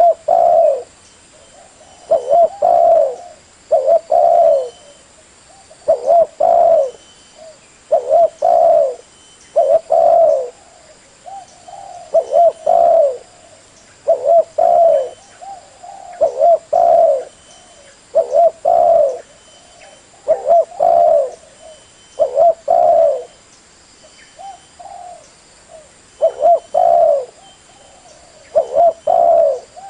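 Spotted dove cooing over and over, a loud phrase about every two seconds. It is a recorded call meant as a decoy lure to draw doves in.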